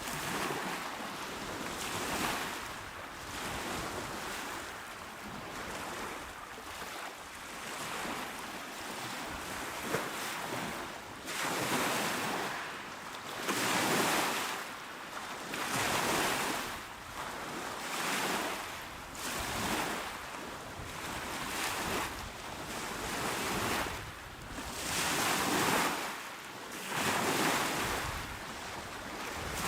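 Small waves breaking on a shore and washing back, in repeated swells about every two seconds, with some wind.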